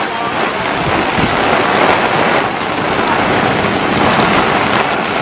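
Heavy rain falling in a strong wind, a loud steady hiss.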